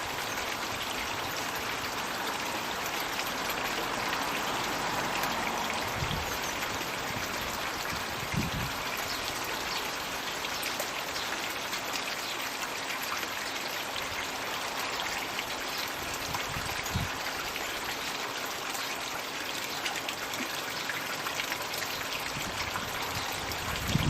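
Water pouring and splashing steadily from a floating magic-bucket fountain into a garden pond.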